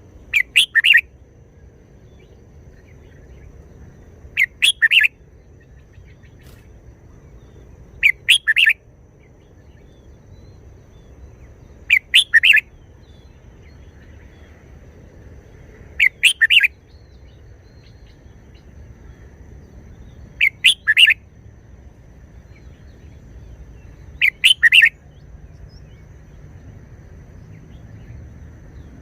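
Red-whiskered bulbul singing short, bright song phrases of a few quick notes, about one phrase every four seconds, seven in all.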